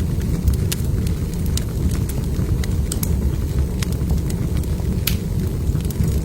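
Logs burning in a fireplace, crackling with scattered sharp pops over a steady low rumble.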